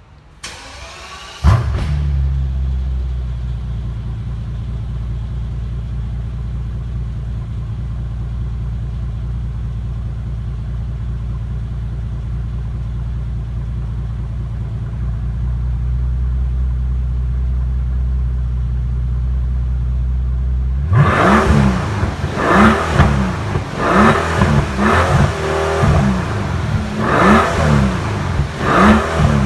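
2015 Mercedes-AMG SL65's twin-turbo V12 cold start: the starter cranks briefly, the engine catches with a loud flare about a second and a half in, then settles into a steady fast cold idle. Near the end it is revved in a series of short throttle blips, about one a second, each rising and falling.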